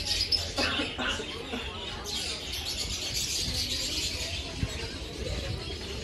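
Small birds chirping and tweeting, many short high chirps overlapping.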